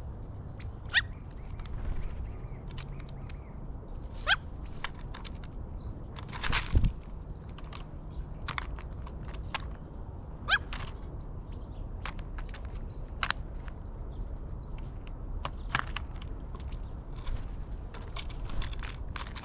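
Birds at a backyard feeder: scattered sharp taps and clicks of feeding, with three short rising chirps, over a steady low rumble.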